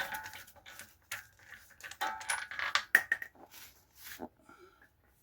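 Irregular metallic clinks and rattles of a lug nut and wrench socket as a car's lug nuts are loosened and spun off by hand, with short ringing clanks that fade near the end.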